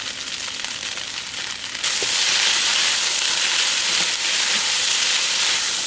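Noodles and sliced onion sizzling in hot oil in a nonstick wok while being tossed with a spatula. The sizzle steps up louder about two seconds in.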